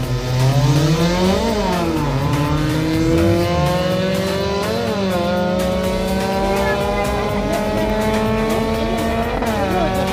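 Car accelerating hard on a drag run through the gears. Engine pitch climbs and drops at each upshift, about one and a half, five and nine and a half seconds in, the last climb long and slow.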